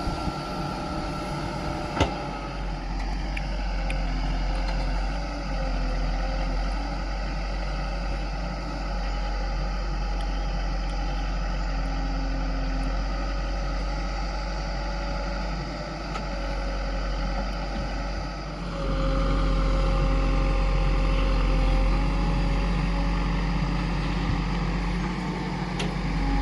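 JCB 3DX backhoe loader's diesel engine running steadily as it works, with a single sharp knock about two seconds in. About two-thirds of the way through the engine gets clearly louder, as if put under more load.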